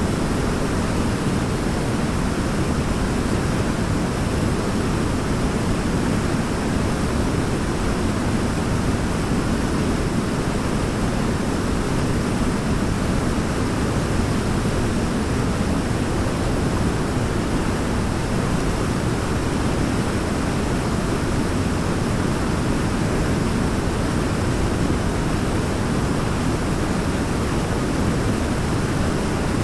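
Waterfall: a steady, unbroken rush of falling water, deep and full in the low range, with no change in level.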